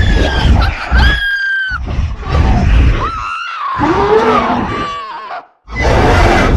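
Screaming in a horror soundtrack: several long, high-pitched screams over a heavy low rumble, with a lower wavering cry in the middle. The sound cuts out completely for a moment about five and a half seconds in, then returns as a loud, rough burst of noise.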